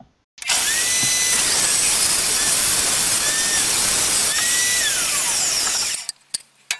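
A woodworking power tool running steadily on ash stock for about five and a half seconds, then stopping, followed by a few sharp clicks.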